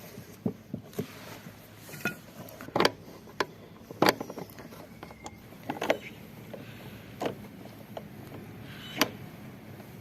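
Irregular sharp knocks and clicks, about a dozen at uneven intervals, the loudest around two, four and six seconds in, as tools and parts are handled.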